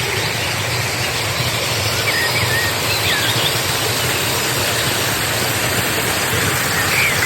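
Steady rush of flowing river water, with a few faint bird chirps about two to three seconds in and again near the end.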